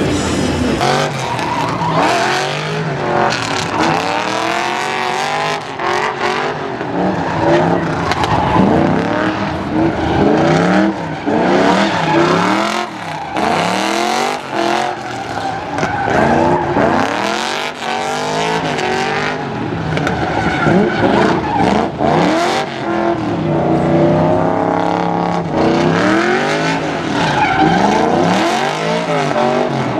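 A vehicle being drifted: its engine revs up and down over and over, with tires squealing as it slides.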